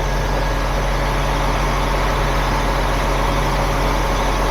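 Heavy tow truck's engine idling steadily while the underlift is being worked.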